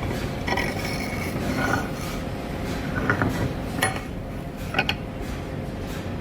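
Mechanical squeaks and a few sharp clicks over a steady low rumble.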